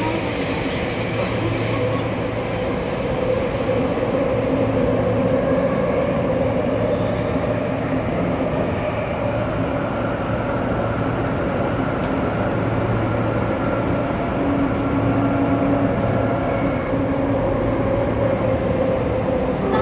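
Saitama Rapid Railway 2000 series train running through a subway tunnel: steady rolling noise with a continuous hum.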